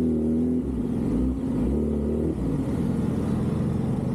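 A motor vehicle engine running steadily, its pitch shifting up and down for a couple of seconds in the first half.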